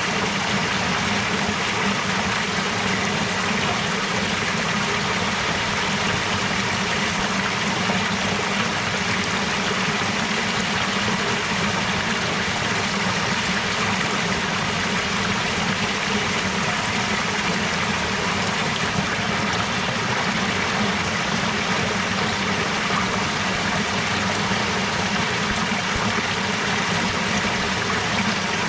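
Stream of water running steadily.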